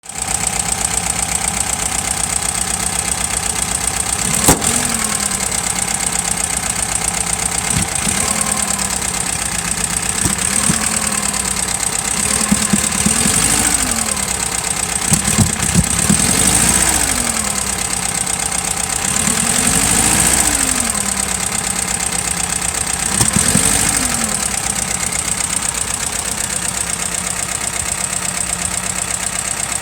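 Air-cooled 0.8-litre V4 engine of a 1967 ZAZ 965A idling, then blipped up and back down several times, with a sharp crack about four seconds in. The owner says it needs tuning to run smoothly at higher revs.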